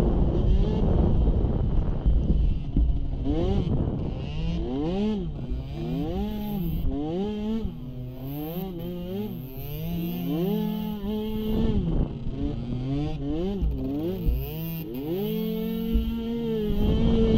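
Small youth ATV engine held at steady high revs, then revving up and down over and over as the throttle is worked on and off for roughly ten seconds, then settling back to a steady high note near the end.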